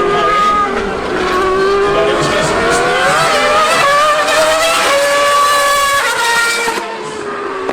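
Racing engine accelerating hard through the gears, its pitch climbing and then dropping at each upshift.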